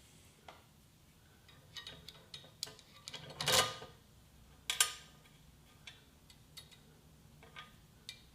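Scattered light clicks and knocks from handling the appliance hand truck's strap hardware, with two louder knocks about three and a half and five seconds in.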